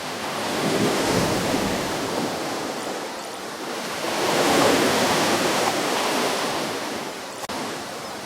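Ocean waves breaking and washing onto a shore: one wave surges about a second in, and a louder one breaks around the middle before washing back out.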